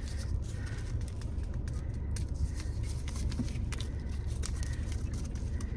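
Steady low rumble of a car idling, heard from inside the cabin, with scattered light clicks and rustles of food and packaging being handled.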